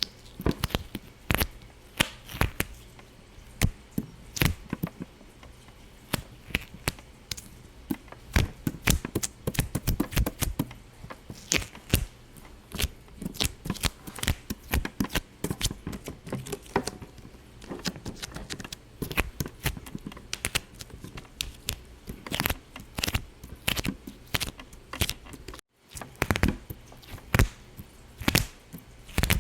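Rapid, irregular popping: sharp pops and clicks, several a second, going on throughout, with a momentary gap about 26 seconds in.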